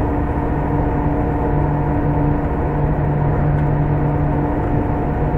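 E1 series Max double-deck Shinkansen running at steady speed, heard from inside the passenger car: a constant rumble of running noise with a steady hum held at several pitches.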